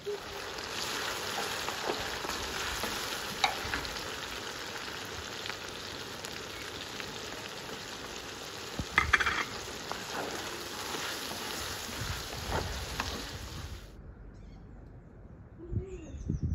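Food frying in a hot pan, a steady sizzle with scattered pops and crackles and a brief louder noise about nine seconds in. It cuts off about fourteen seconds in, leaving a quieter outdoor stretch with a few faint bird chirps.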